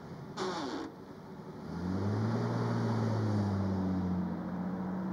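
Engine of a vintage 1930s sedan pulling away from the curb, its low note rising slightly as it accelerates and then holding steady, after a brief rasp about half a second in.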